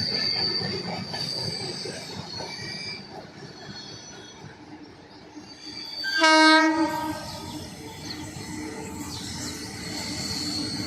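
An Indian electric train rumbling past on the rails, with a thin, high wheel squeal, and one short, loud horn blast about six seconds in.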